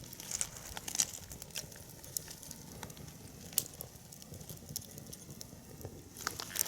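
Small wood fire crackling, with scattered sharp pops at irregular intervals.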